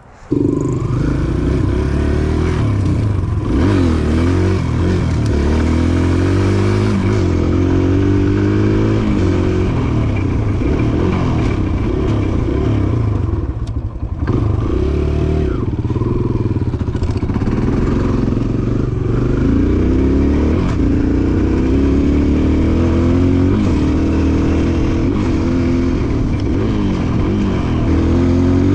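Small gas pit bike engine running under a rider, revving up and down as the throttle opens and closes, with a short drop in revs about halfway through.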